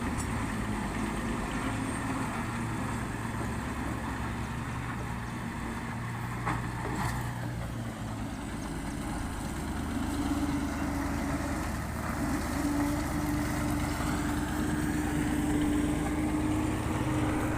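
Heavy road-construction machinery engine running steadily at a low rumble; about ten seconds in a steady hum joins it and grows a little louder. A single short knock comes near the middle.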